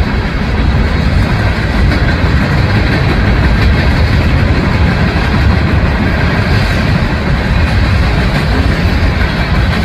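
Freight train passing close by, a loud steady rumble of rolling railcars with faint clicking from the wheels over the rail joints.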